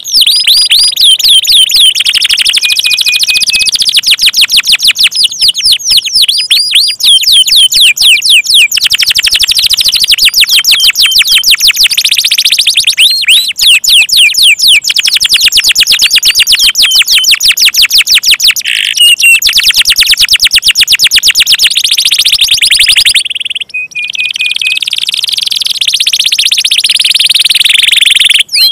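Canary singing loudly in long, fast trills of repeated high chirps, with a brief pause about two-thirds of the way through.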